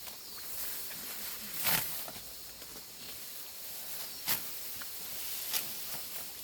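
Steady outdoor hiss with sharp swishing sounds every second or two.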